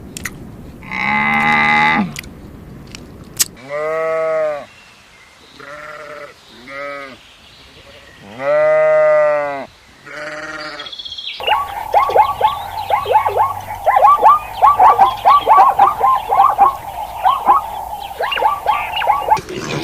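Livestock bleating: several long, wavering bleats, the loudest about nine seconds in, with shorter ones between. About eleven seconds in the sound changes abruptly to a dense run of rapid, high, chirping calls, many a second, over a steady background.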